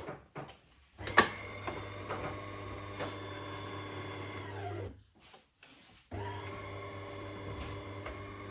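Small geared electric motor running steadily with a hum, plausibly the drive motor and gear transmission of a DeLonghi ESAM 5600 coffee machine. It stops just after the start, starts again with a sharp click about a second in, and winds down with a falling pitch near five seconds. After a pause of about a second it starts once more.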